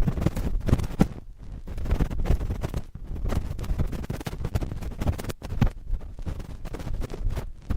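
Cotton swabs scratching and rubbing directly on a microphone: dense, irregular scratchy rustling with many small clicks, heavy and boomy in the low end.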